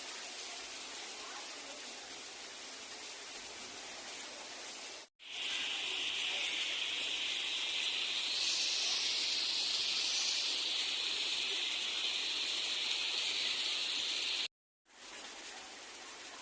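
Outdoor monsoon ambience: a steady high hiss that grows louder and fuller from about 5 s to 14.5 s, broken by brief total dropouts about 5 s and about 14.5 s in.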